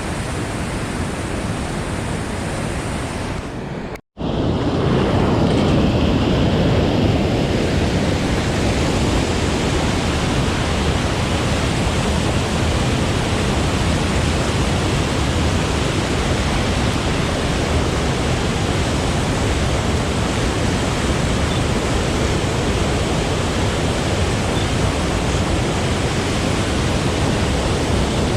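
Steady rush of whitewater pouring from a dam's floodgates into a river tailrace. It drops out for an instant about four seconds in, then comes back a little louder and fuller.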